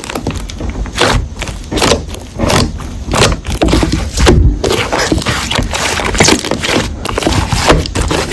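Slime being squished and pressed by hand close to the microphone, in a run of irregular sharp squishes several a second.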